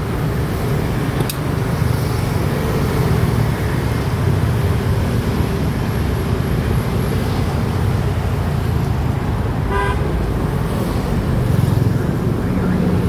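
Steady road-traffic and vehicle rumble, with a short horn toot about ten seconds in.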